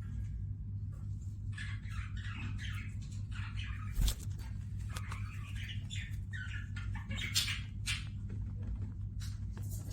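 Caged Gouldian finches and budgerigars chirping and chattering in quick runs of short calls, with a couple of sharp clicks, over a steady low hum.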